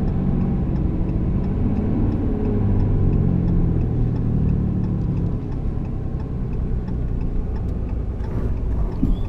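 Engine and road rumble inside a pickup truck's cab while towing, with the engine pulling harder for a few seconds. The turn signal ticks steadily throughout, and there are a couple of sharp knocks near the end.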